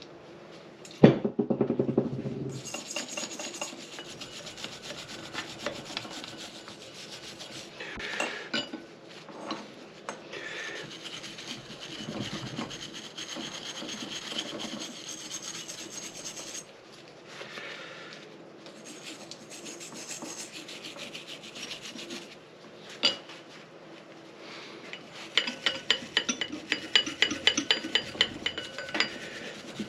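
Hand scrubbing and scraping on Honda CB450 engine parts, a steady run of rubbing strokes with a sharp knock about a second in. Near the end the strokes turn fast and even.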